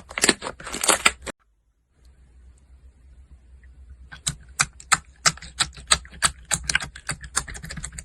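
Slime being squeezed and pressed by hand, giving rapid crisp clicking pops, about five a second in the second half. It opens with louder crackly squishing that cuts off abruptly a little over a second in, followed by a short silence before the clicking starts.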